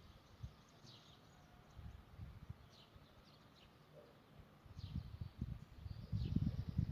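Canary giving short, high, falling chirps about once a second, faintly, over low thumps and rumble that grow louder near the end.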